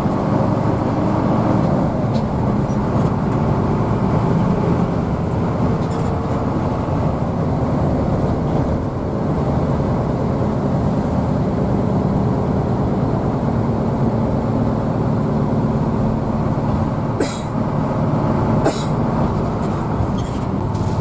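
Cabin sound of a Hino AK diesel bus on the move: a steady engine drone with road and tyre rumble. Two sharp clicks or knocks come near the end.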